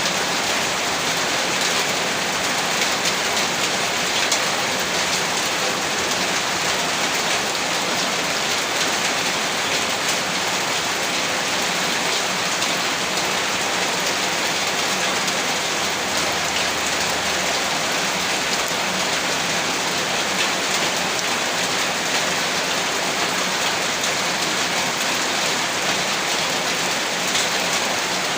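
Heavy rain falling steadily, a dense, even hiss of many drops striking a surface.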